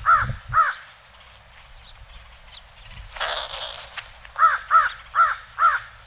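A bird's harsh calls in quick runs, two near the start and four near the end at about three a second, with a brief rush of noise between them.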